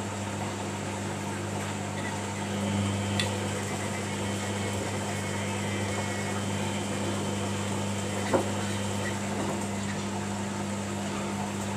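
Samsung front-loading washing machine running in service mode with a steady electrical hum and water noise, and two short clicks about three and eight seconds in.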